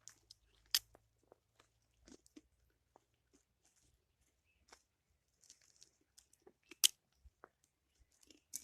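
Irregular crunching steps on the forest floor, a few soft crunches a second at most, with two sharp, louder clicks or snaps about a second in and again near the seventh second.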